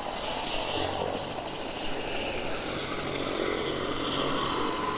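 Helicopter running steadily, a continuous even rush of turbine and rotor noise.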